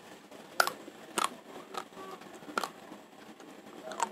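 Mouthful of raw rice being chewed: hard grains crack between the teeth in a handful of sharp, separate crunches at uneven intervals.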